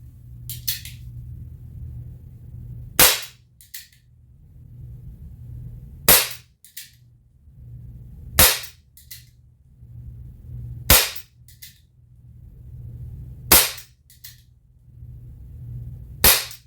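Crosman 38C CO2 revolver firing .22 pellets: six sharp shots, roughly two and a half seconds apart, each followed by a fainter click.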